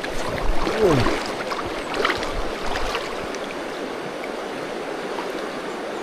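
A fast-flowing river runs steadily. A short falling tone sounds under a second in.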